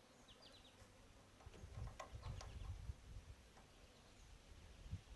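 Near silence with a few faint light clicks and knocks from a roller chain and half link being handled, and a low rumble in the middle. A few quick high chirps, like a small bird, about half a second in.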